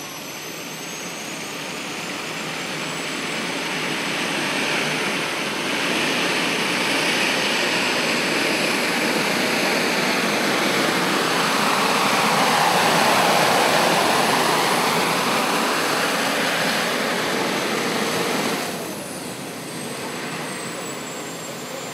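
A pulling vehicle's engine at full power during a tractor-pull run, a loud, dense engine noise that builds steadily, peaks about halfway through, then drops off abruptly about three seconds before the end as the power comes off.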